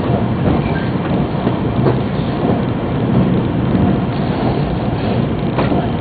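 Yamagata Shinkansen train running, heard from inside the passenger car: a steady low rumble of wheels on rails, with a faint click about two seconds in and another near the end.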